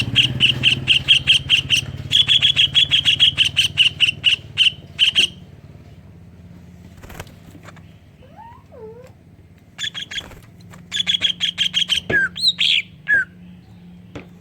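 Greater green leafbird (cucak ijo) singing kingfisher (tengkek udang) calls it has learned: a fast run of sharp, high repeated notes lasting about five seconds, then after a pause a shorter run ending in a few swooping notes.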